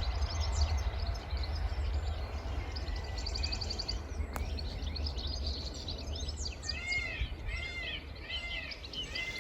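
Small songbirds singing and chirping, with a quick trill about three seconds in and a string of four or five repeated arched call notes near the end, over a steady low rumble.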